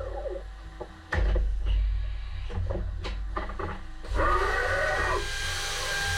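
HAAS Super Mini Mill CNC machine sounds: a low hum with whines that fall and then rise in pitch as the machine changes speed. Several sharp clicks come between about one and three seconds in, and a hiss starts about four seconds in.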